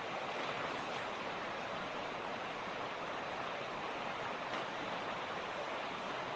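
Mountain stream rushing over rocks: a steady, even rush of water with no breaks.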